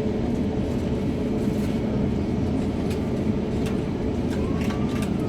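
Airbus A350-900's Rolls-Royce Trent XWB jet engines at full takeoff power: a steady, loud roar.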